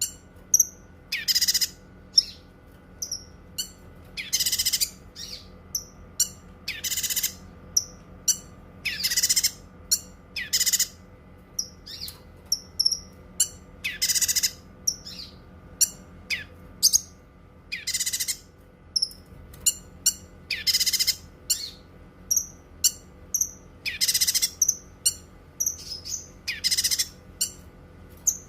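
Cucak kinoi singing: loud, high calls of about half a second repeated every two to three seconds, with short quick chirps scattered between them.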